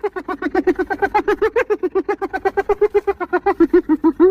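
Spotted hyena giggling: an unbroken run of short, high-pitched yelping notes, about eight a second, ending on a rising note.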